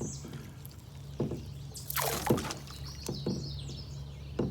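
Short knocks and water splashes around a canoe, four or so separate strokes about a second apart, the loudest about two seconds in, over a steady low hum.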